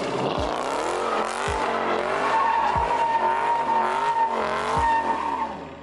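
A car drifting: the engine revs up and down while the rear tyres squeal and skid, with a sustained high-pitched screech through the middle. The tyres are spinning under heavy throttle, and an onlooker calls it too much gas. The sound dies away near the end.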